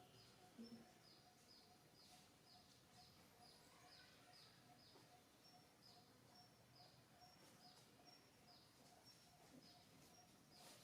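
Faint outdoor ambience with a small bird repeating a short, high, falling note about twice a second in a steady rhythm.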